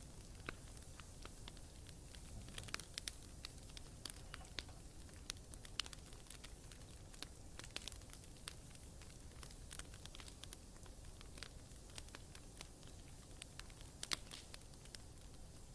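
Wood campfire burning, crackling with frequent irregular pops and snaps over a low steady rumble.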